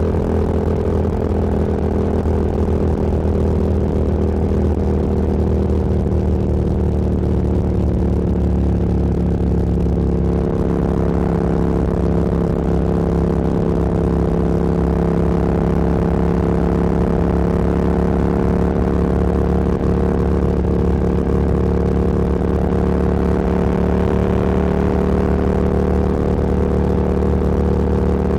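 Motorcycle engine running at a steady cruise, its pitch holding nearly constant with only slight drifts. Wind and road noise build from about a third of the way in.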